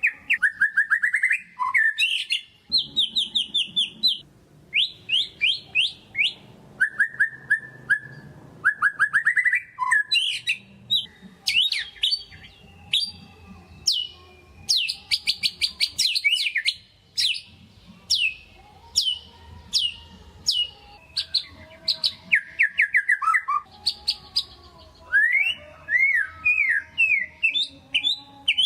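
White-rumped shama singing continuously in rapid bursts of repeated sweeping notes and fast trills, phrase after phrase with short gaps.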